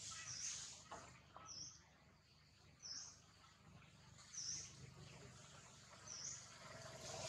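Faint, high bird chirps, a short dipping note repeated five times about every second and a half, over quiet outdoor background noise. Two faint clicks come about a second in.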